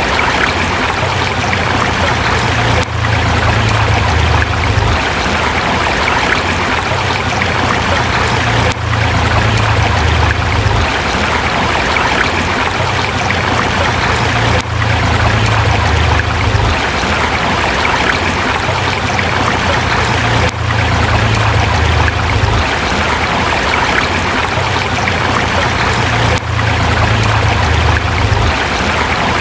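Forest river flowing over rocks, a steady rush of water, with a brief dip in level about every six seconds.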